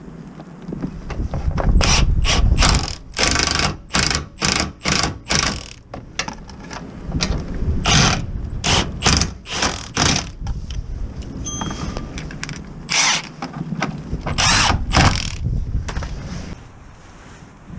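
Hand ratchet being worked in quick strokes, about two a second, in three spells with pauses between.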